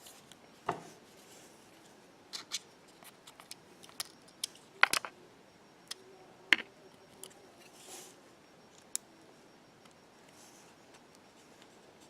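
Irregular small clicks and taps of hand tools and tiny parts being handled on an iPhone 6's internals, with the two sharpest clicks about five and six and a half seconds in.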